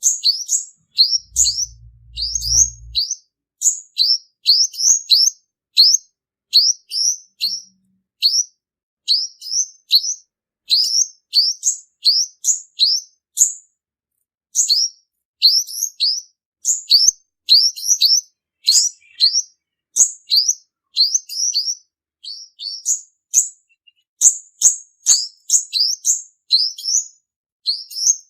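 Male olive-backed sunbird calling: a fast, unbroken series of short, high, sweeping chirps, several a second, used as a male lure call to draw sunbirds to a trap. A short low hum sounds briefly about a second in.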